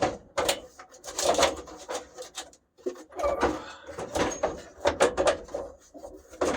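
Irregular knocks, clicks and scraping of plastic and metal parts as a dash component is worked loose and pulled out of a 1965 Chevrolet C10 cab.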